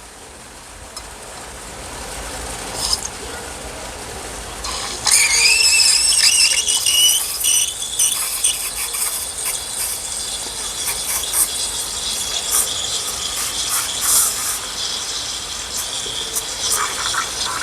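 Espresso machine steam wand frothing milk in a jug: the hiss builds up, and about five seconds in it turns loud with a high squeal rising in pitch. It then settles into a steady hiss with spluttering crackles as the milk is stretched.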